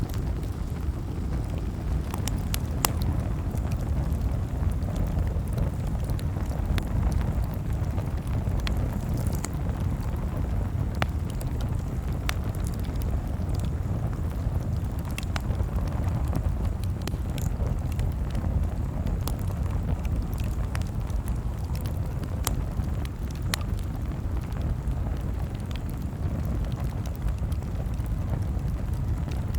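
Campfire crackling: a steady low rumble of burning with scattered sharp crackles and pops.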